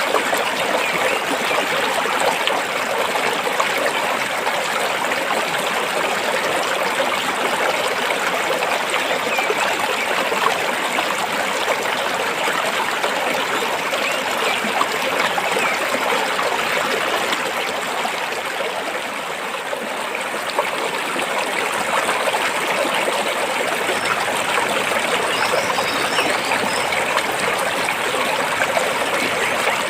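Stream water flowing and trickling over rocks, a steady rushing that eases slightly about two-thirds of the way in.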